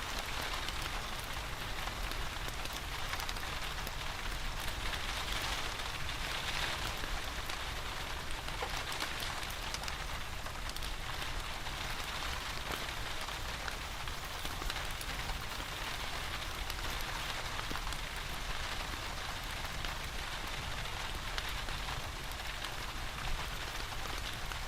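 Steady rain falling, an even hiss with scattered fine ticks and a low rumble underneath.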